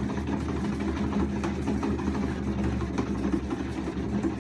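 Car engine running steadily, a low even drone.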